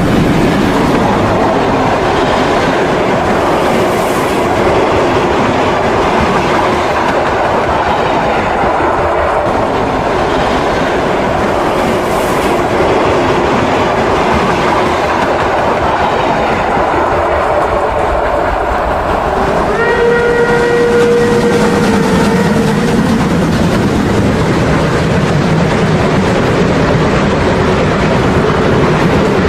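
Märklin model steam locomotives, a BR 50 and a BR 52, with sound running a long coke train: steady rolling noise of model wheels on track mixed with the locomotives' steam running sound. About twenty seconds in, a steam whistle sounds for roughly three seconds.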